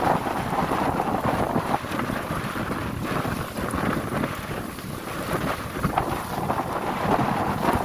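Wind buffeting the microphone and water rushing and splashing on a passenger motor boat underway through waves. The loudness rises and falls unevenly.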